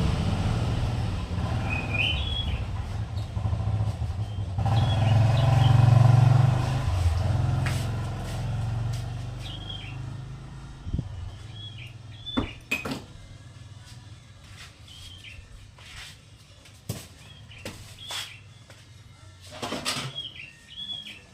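Bar-winged prinia (ciblek) singing in short, repeated chirping phrases. A low rumble fills the first several seconds, loudest about six seconds in, then fades, and sharp clicks come now and then in the second half.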